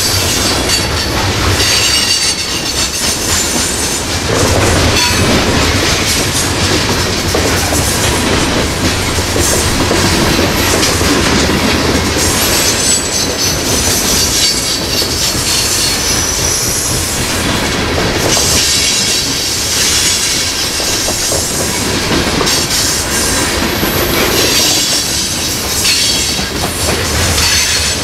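Loaded coal hopper cars of a freight train rolling past close by, steel wheels running on the rails, with a high-pitched wheel squeal coming and going.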